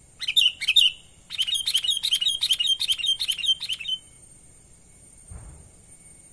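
Sooty-headed bulbul calling: a short burst of chirping notes, then a longer run of rapid, bubbly repeated notes lasting about three seconds.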